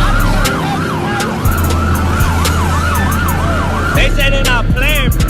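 Emergency-vehicle siren in a fast up-and-down yelp, about two to three cycles a second, switching to a quicker, higher-pitched sweep about four seconds in, over a deep steady low rumble.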